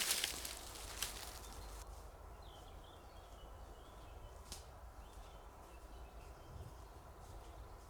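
Footsteps crunching on dry forest-floor litter, stopping about a second in, then quiet woodland with a faint bird call and a single snap or click.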